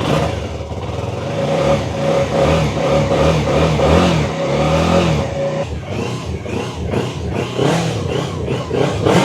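Heavy motorcycle engine running and being revved, its pitch rising and falling several times, with a steady high tone over the first five seconds or so.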